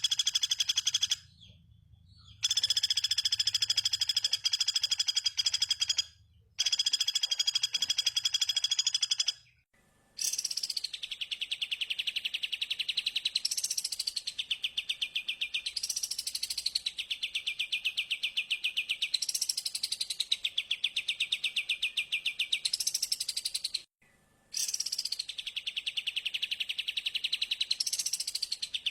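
Recorded songbird song: a fast trill held at a steady pitch and broken by two short silences. From about ten seconds in, a phrase repeats every two to three seconds, sweeping up in pitch and falling back over a continuous fast trill, with one brief silence near the end.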